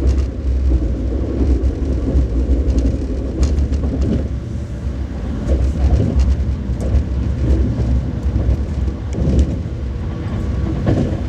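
Alfa Pendular (Pendolino) tilting train running along the line: a steady low rumble with scattered short clicks.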